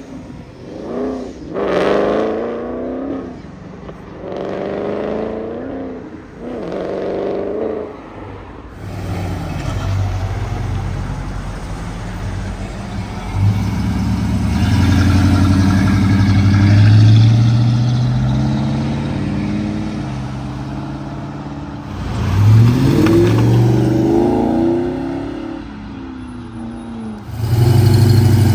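Cars accelerating away one after another: several quick revs rising and falling in pitch over the first few seconds, then a loud, low engine note that climbs through the gears from about nine seconds in, with another hard acceleration near the end.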